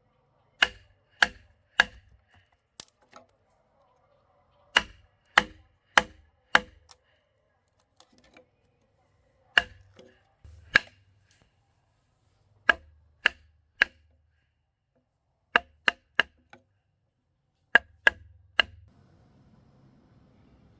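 Sharp blows of a hand tool striking wood, in quick runs of three or four with short pauses between them.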